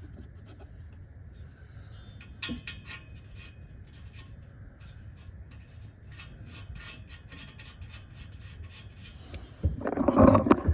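Small metal clicks and rubbing of 13 mm nuts being threaded back onto the exhaust studs by hand. A louder burst of scraping and clatter comes near the end.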